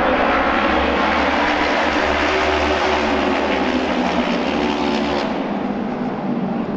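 Auto race motorcycles running at full throttle as a pack passes by on the track. The sound eases off about five seconds in as they pull away.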